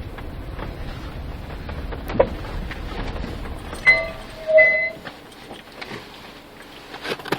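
Volkswagen Polo Sedan driving, with steady road rumble and a sharp knock about two seconds in: the suspension knock the owner is recording. About four seconds in come two short electronic tones, and the rumble drops away.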